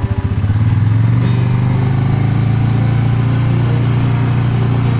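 Motor vehicle engine chugging unevenly at low revs, then picking up within the first second to a steady, louder run.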